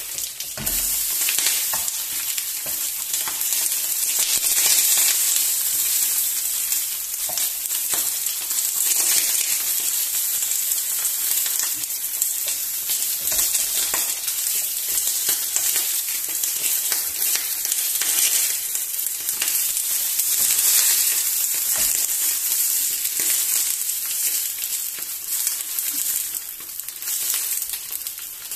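Banana-leaf parcels of chicken sizzling steadily in a little oil on a flat griddle pan, with crackles and the scrape and knock of a wooden spatula as the parcels are turned over.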